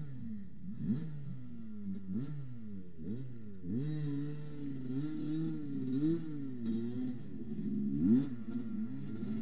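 Motorcycle engine running while riding a mountain trail. The revs rise and fall repeatedly with short quick blips, the strongest a little past eight seconds in.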